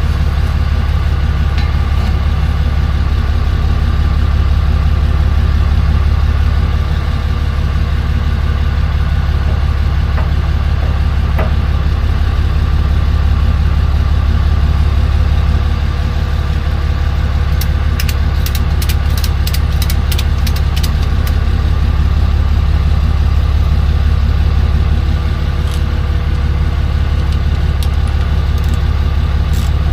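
Tow truck engine idling steadily with a low, even hum. A quick run of clicks comes in about two-thirds of the way through and again right at the end.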